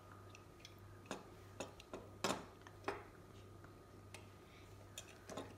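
Scattered light clicks and taps of plastic toy trucks being handled and turned over, about half a dozen, over a faint steady low hum.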